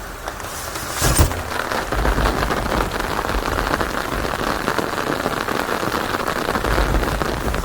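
Steady rain falling hard, full of fine pattering drops, with low rumbles of thunder rising twice and a sharp crack about a second in.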